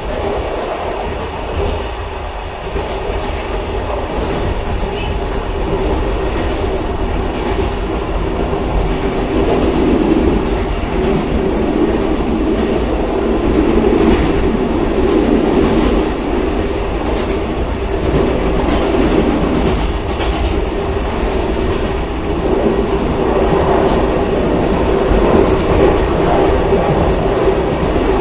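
Railcar running along the track: a continuous rumble with a steady hum and a clickety-clack of wheels over rail joints, slowly getting louder.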